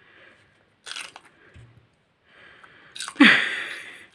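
A raw green pepper bitten with a crisp crunch about a second in, followed by quieter wet chewing. Near the end there is a loud, breathy vocal burst that falls in pitch.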